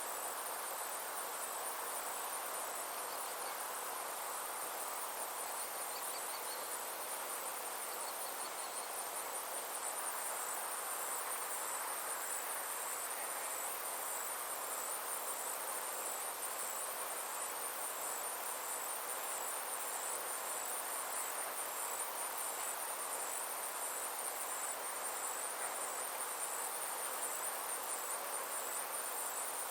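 A chorus of summer insects trilling steadily in a high, evenly pulsing band, over a soft continuous background hiss. A few faint brief chirps come in during the first third.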